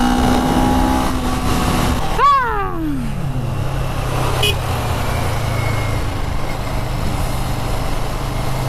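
CFMoto 400NK's parallel-twin engine on its stock exhaust, running at steady revs and then dropping sharply in pitch about two seconds in as the throttle closes. It settles into a steady low idle, with wind noise in the early part.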